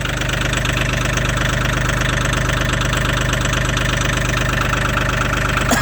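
Mahindra 1635 HST tractor's three-cylinder diesel engine idling steadily in deep cold, shortly after a cold start. A brief click is heard near the end.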